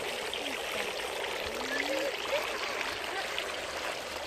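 Water running steadily, like a small stream or trickle, with faint voices in the distance.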